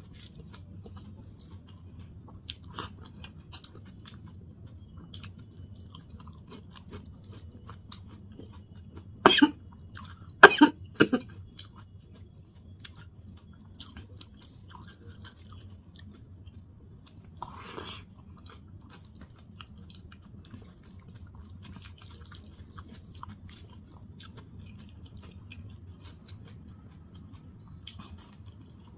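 Close-up mouth sounds of a person eating rice and dal by hand: soft chewing and squishing over a steady low hum. Three loud coughs come about nine to eleven seconds in, and there is a crisp bite into raw onion near the end.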